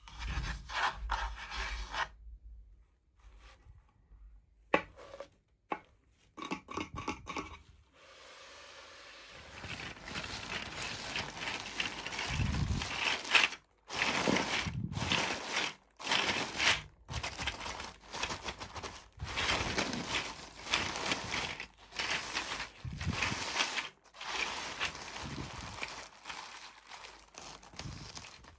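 Toy packaging being handled and opened: irregular scraping, rubbing and tearing sounds. A few short scrapes with pauses come first, then near-continuous rustling and scraping from about a third of the way in.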